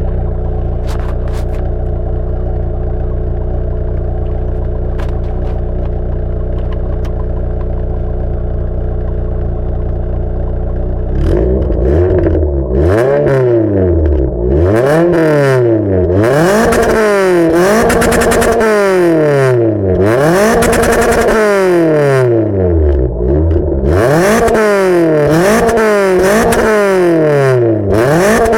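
Renault 19 16V's F7P 1.8-litre 16-valve four-cylinder engine idling steadily, then revved hard over and over from about eleven seconds in, each rev rising and dropping back quickly. The exhaust runs without a catalytic converter, straight-piped to the stock rear muffler.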